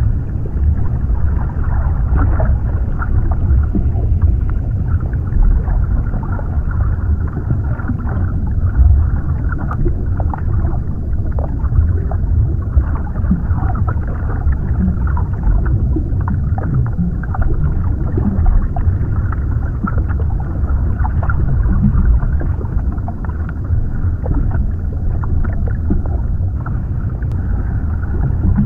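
Underwater ambience: a steady low rumble with scattered faint clicks and crackles.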